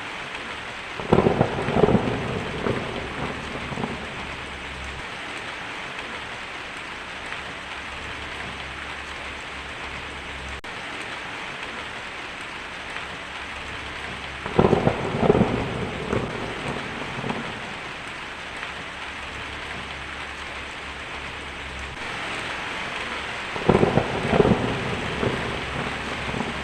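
Heavy rain drumming steadily on a tin roof, with thunder cracking and rumbling three times: about a second in, around the middle, and near the end.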